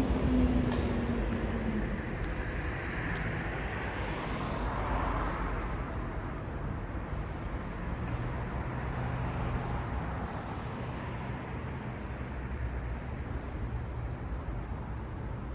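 City street traffic: vehicles pass with engine rumble and tyre noise. At the start a passing vehicle's engine tone falls in pitch as it goes by, then a steady low traffic rumble continues with a swell of tyre noise a few seconds in.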